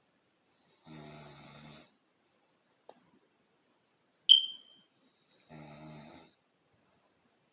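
Snoring: two drawn-out snores about four and a half seconds apart. Between them comes a single short, high-pitched chirp, the loudest sound, which dies away quickly.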